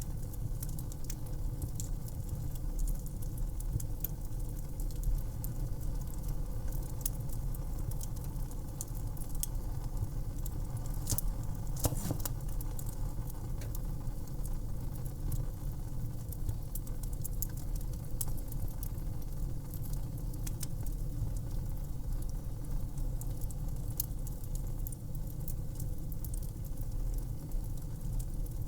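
Wood fire crackling and popping irregularly over a steady low rush of burning, with a few louder pops near the middle.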